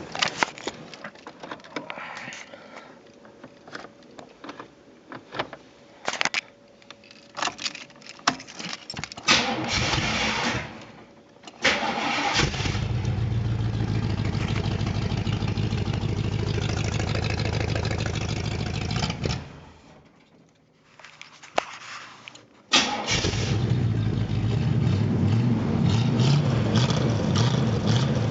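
1982 Camaro Z28's 305 V8 started up and running through a glasspack side-exit exhaust. After some scattered clicks and knocks, the engine catches suddenly and runs steadily for about seven seconds, shuts off, then is started again a few seconds later and keeps running.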